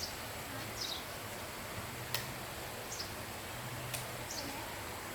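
A small bird chirping: short, high notes that fall in pitch, one every second or so, over a steady background hiss, with two faint clicks in between.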